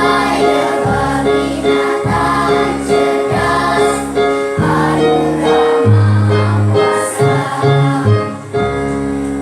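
Children's choir singing in unison over instrumental accompaniment with steady bass chords that change about once a second, ending on a held chord.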